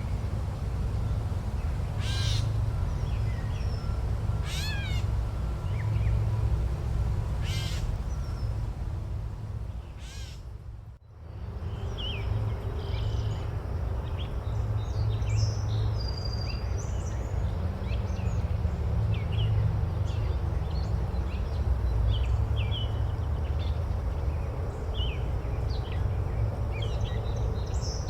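Forest ambience over a steady low rumble: a crow caws three times in the first ten seconds, then after a brief dip about eleven seconds in, many small birds chirp.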